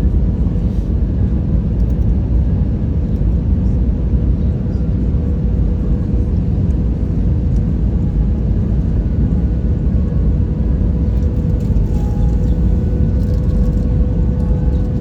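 Steady cabin noise inside an Airbus A320 descending: a constant low rumble of airflow and engines, with a faint steady hum.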